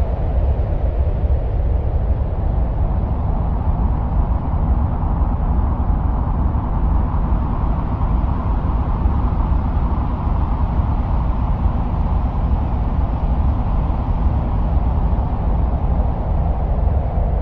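Steady, low wind-like rumble with a rushing hiss above it that swells gently and eases off, presented as the sound of Mars.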